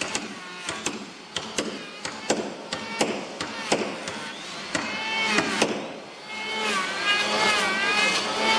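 Hammer blows on wooden boat timber, struck at an irregular pace, about a dozen knocks. From about five seconds in, a motor joins with a whine that wavers in pitch and grows louder near the end.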